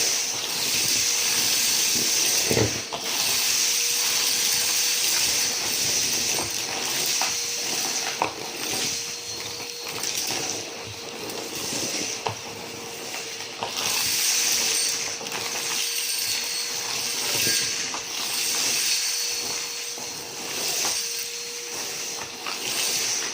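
Numatic James tub vacuum cleaner running with a steady motor whine and rushing airflow that swells and fades as the nozzle moves. It is sucking up a crunchy mess, with frequent clicks and crackles of debris going up the hose.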